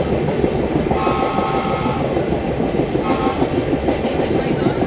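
Subway train running on the rails, a loud steady rumble and rattle of wheels and cars, with a brief high tone sounding about a second in and again about three seconds in.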